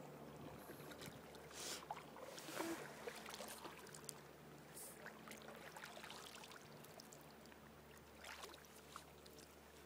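Faint splashes and drips of canoe paddles dipping into the river water, a few separate strokes.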